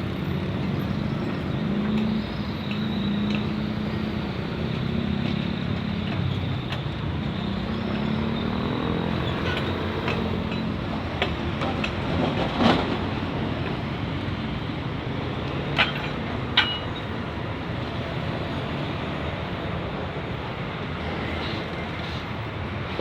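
Steady road traffic and an idling engine hum, with a few short sharp knocks, about thirteen and sixteen seconds in.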